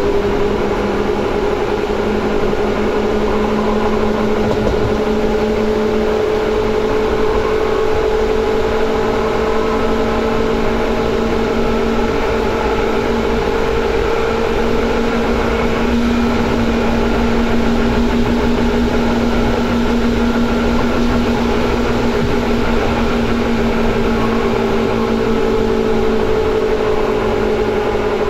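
Seibu 2000 series electric commuter train heard from inside the car while running: a steady rumble of wheels on rail under a motor and gear whine. The whine climbs slowly in pitch, then shifts about halfway through.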